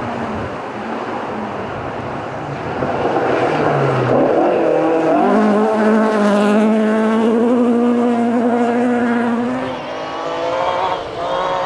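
A rally car engine at high revs, getting louder about three seconds in and holding a high, steady note for several seconds. The note breaks off near the ten-second mark, then the engine picks up again.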